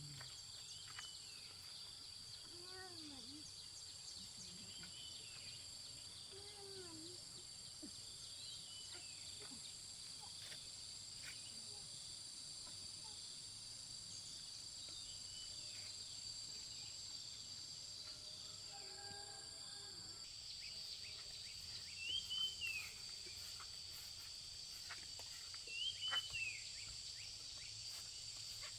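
Steady high-pitched drone of insects, with scattered short animal calls over it, most likely birds; a few louder arched chirps come near the end.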